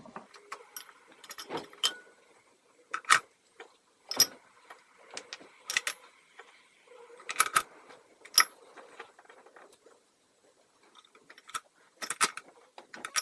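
Small metal carburetor parts clinking as they are set down on a parts tray for a chem dip, a series of sharp, irregular clinks with a quiet pause near the end.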